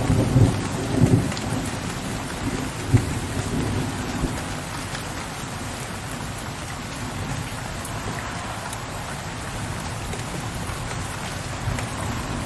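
Steady rain with low rolling thunder. The thunder is loudest at the start and dies away over the first couple of seconds, leaving the even hiss of the rain, and a low rumble builds again near the end.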